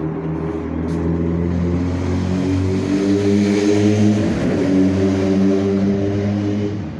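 An engine running steadily nearby, a loud low hum with a steady pitch that shifts slightly now and then.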